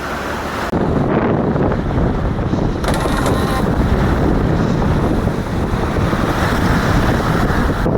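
Wind buffeting the microphone over the rush of water along the hull of a sailing yacht under sail, beating to windward in a fresh breeze with swell. The noise steps up in loudness under a second in.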